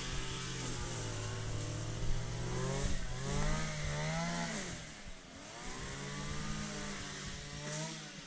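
Small petrol grass-cutter engine (a lawnmower, by the hiker's word) running and revving up and down, its pitch rising and falling several times before dropping away near the end.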